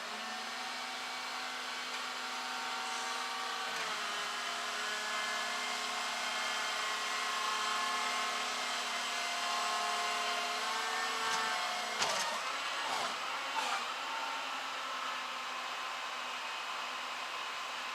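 Truck engine running steadily while driving, a hum whose pitch shifts slightly a few times, with a few clicks and knocks a little past the middle.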